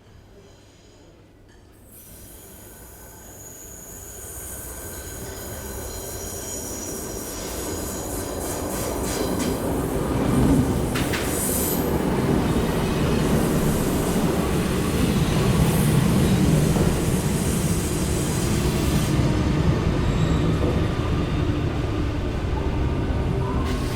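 Metro train approaching and pulling in, growing steadily louder over the first ten seconds, with high wheel squeal on the rails, then rumbling at close range.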